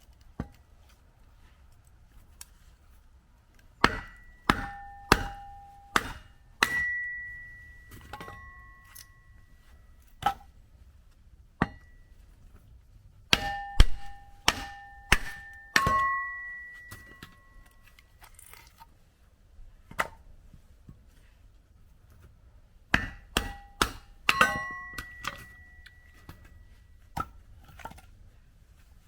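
Firewood being split: three bursts of about five hard strikes each, every strike leaving a short metallic ring, with a few single knocks in between.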